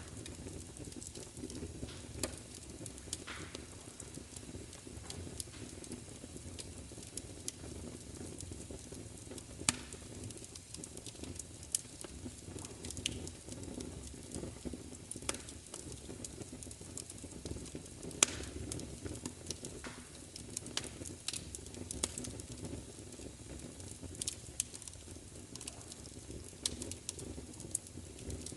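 Fire crackling: a steady low rumble of burning with irregular sharp pops and snaps scattered throughout, a few of them louder, the loudest about 18 seconds in.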